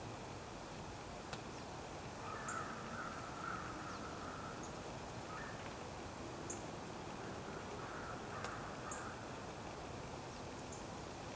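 Quiet winter outdoor ambience with a steady low hiss, over which a bird gives a run of harsh calls about two seconds in and again around eight seconds. Brief high chirps and a couple of sharp ticks are scattered through.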